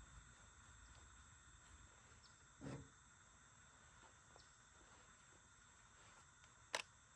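Near silence with a faint, steady high-pitched hum. A brief soft knock comes a little under three seconds in, and a sharp click near the end.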